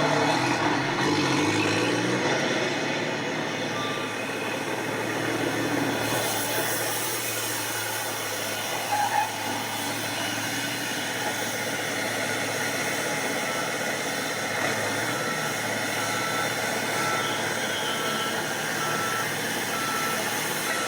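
Race trucks' diesel engines running hard on a circuit, a steady mix of engine and road noise. A row of short, evenly spaced beeps sounds over it in the last several seconds.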